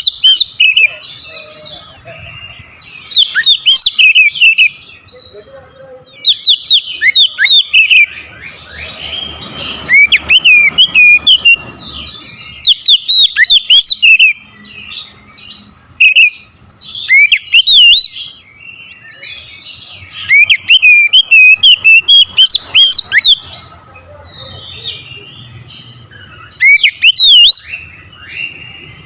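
Oriental magpie-robin (kacer) singing loudly in repeated bouts of fast, varied whistles and trills, each bout a second or few long with short pauses between. It is the full, combative song of a male kacer, the kind used to provoke rival birds.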